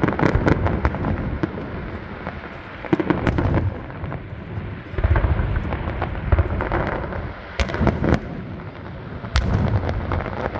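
Aerial fireworks display going off without pause: deep booms of shell bursts mixed with many sharp cracks and crackling reports.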